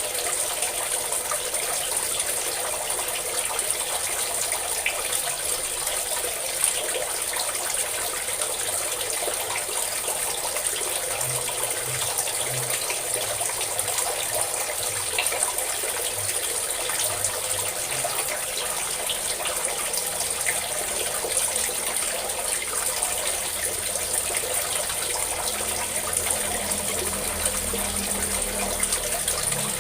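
Steady stream of running water pouring and splashing, a constant even rush with no pauses.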